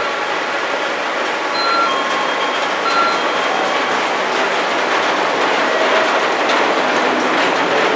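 JR Central electric commuter train rolling past along the platform. The wheels clatter over rail joints, with a few short high squeals, and the clatter grows more frequent toward the end.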